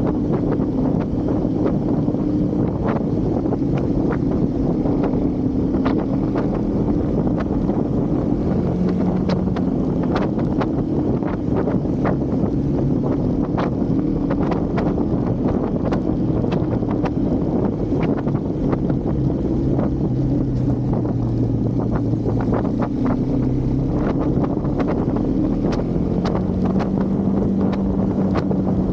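Husqvarna Svartpilen 401's single-cylinder engine running on the move, its pitch rising and falling as the speed changes, under constant wind noise on the microphone. Many short, sharp ticks sound throughout.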